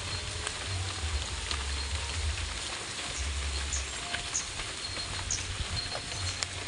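Steady rain falling, an even hiss with scattered ticks of drops, over an on-and-off low rumble.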